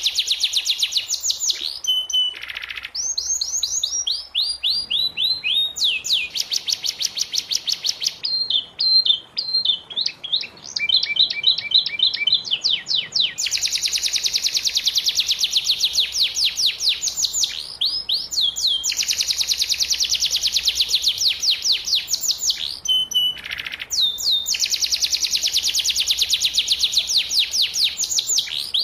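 Domestic canary singing: long, fast trills of repeated sweeping notes. The trill changes speed and pitch every few seconds, with a choppier stretch of broken notes in the middle.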